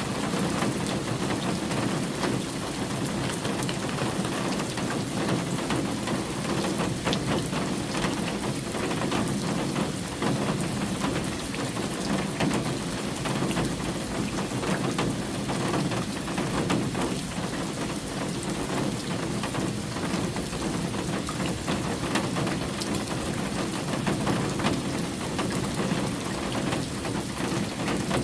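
Steady rain falling, with a constant wash of sound and many individual drops heard as small ticks.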